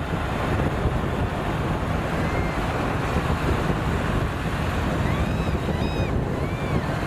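Steady low rumble of road traffic mixed with wind buffeting the microphone, with a few short, high, chirping calls about two seconds in and again near the end.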